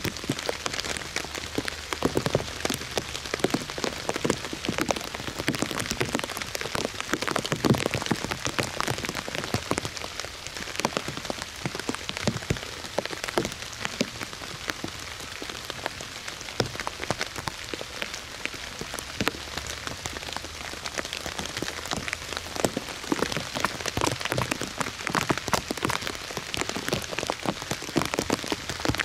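Steady rain pattering on fallen dry leaves: a dense patter of small drops, with scattered louder taps.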